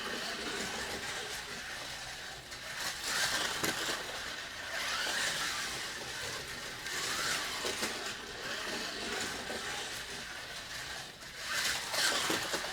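A scratch-built slot car's small electric motor whining as the car laps the slot track. The pitch rises and falls every couple of seconds as it speeds up and slows.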